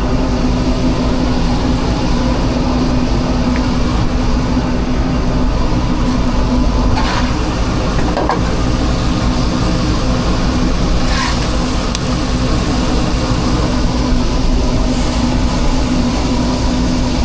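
Food truck's running equipment: a steady low mechanical drone with a constant hum, like an engine idling. A few light clicks come through about seven, eight and eleven seconds in.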